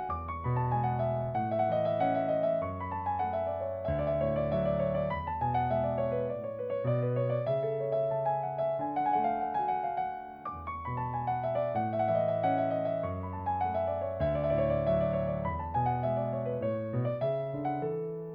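Background piano music: a gentle, flowing keyboard piece with sustained bass notes and repeated falling melodic runs.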